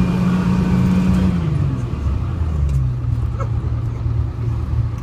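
Detroit Diesel 6V71 two-stroke diesel of a 1970-71 GMC New Look transit bus running under load. About a second and a half in, its note falls and then settles at a lower steady pitch, as the revs drop.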